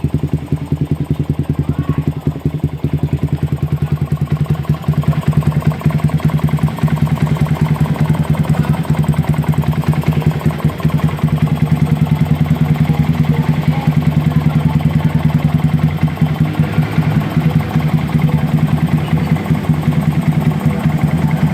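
Motorcycle engine idling steadily through an aftermarket S'Xperforman carbon exhaust, with a rapid, even exhaust pulse.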